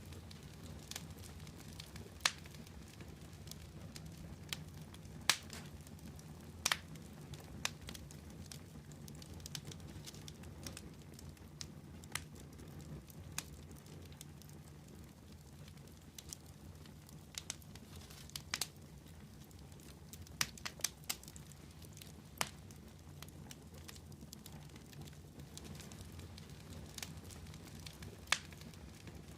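Fire crackling: irregular sharp pops and snaps, a few clustered together, over a steady low rumble.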